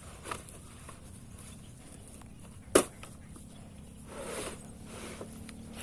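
A few faint scattered knocks over a low steady hum, with one sharp knock just under three seconds in and a soft rush about a second later.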